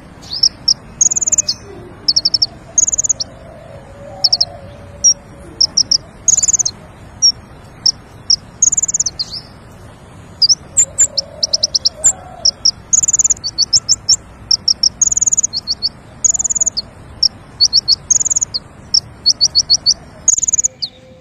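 A small songbird, the 'konin' of Indonesian bird-keepers, singing short, quick high trills of rapid chipping notes, repeated every half second to a second. Fainter, lower calls sound now and then behind it.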